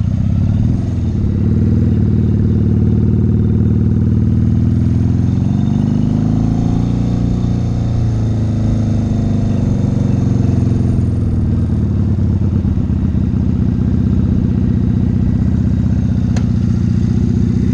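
Motorcycle engine running, heard close up. Its pitch rises about five seconds in and falls back a few seconds later as the bike speeds up and eases off, then stays steady.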